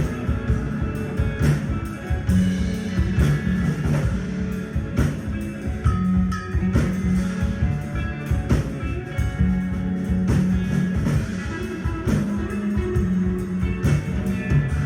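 Live rock band playing: guitar over a drum kit, with steady drum hits.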